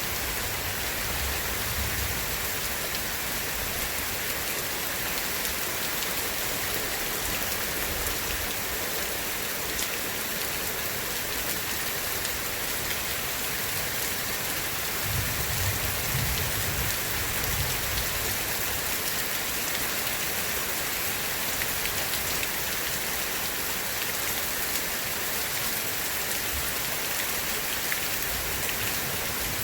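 Steady rain pattering, an even hiss, with a brief low rumble of distant thunder about halfway through.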